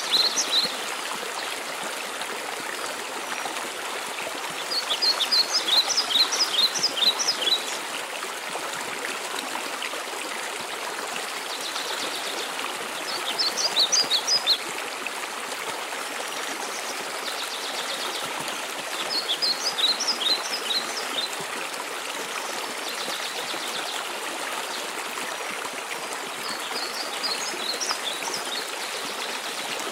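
Waterfall rushing steadily, with a small songbird singing short phrases of quick high notes about every six to seven seconds, five times.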